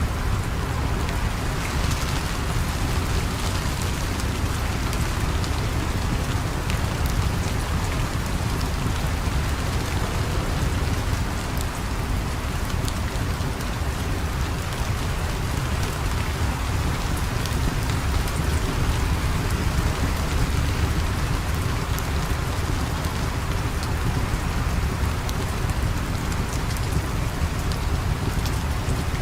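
Steady rain falling with a deep rumble underneath and scattered small sharp clicks throughout.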